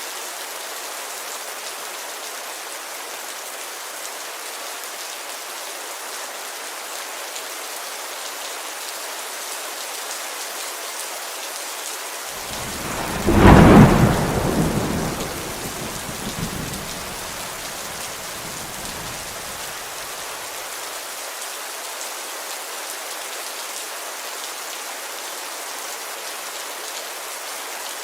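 Steady heavy rain falling on a window. About halfway through, one loud clap of thunder breaks and rumbles away over several seconds.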